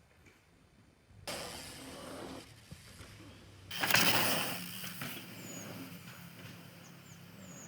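Rushing tyre-on-dirt noise of a dirt-jump bicycle passing close, coming in two surges: one starting suddenly about a second in, and a louder one around four seconds in that then fades.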